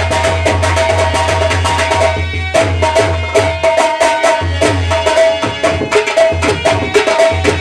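Instrumental folk music: fast hand-drum strokes over a held melodic tone, with a short break about two seconds in before the drumming picks up again.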